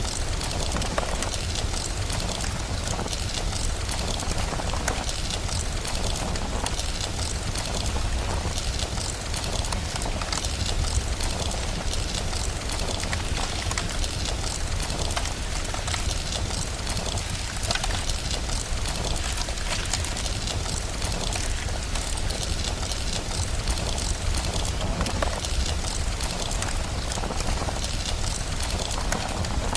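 Steady rain, an even hiss with no breaks, mixed with the fine crackle of a wood fire in a fireplace.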